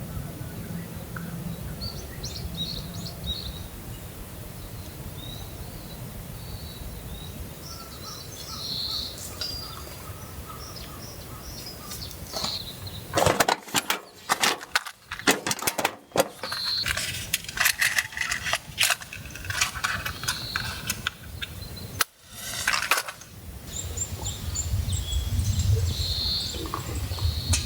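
Birds chirping now and then over a steady low outdoor background. About halfway through, a run of close sharp clicks and rustles, like gear being handled, goes on for around ten seconds, then the birds and background carry on.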